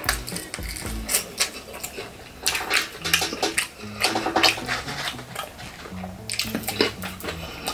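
Crispy fried chicken being bitten and chewed: crunching and crackling in several bursts, with wet chewing between them, over soft background music.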